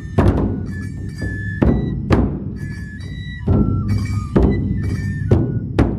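Festival drum-procession music: a large taiko drum (dō) struck in a loose rhythm, about eight heavy strikes, with a high bamboo-flute melody held and stepping in pitch between the beats.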